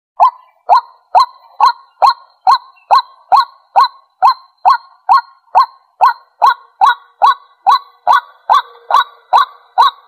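White-breasted waterhen calling: a short, hooked call repeated steadily, a little more than twice a second. This is the bird's territorial call, played to draw other waterhens in.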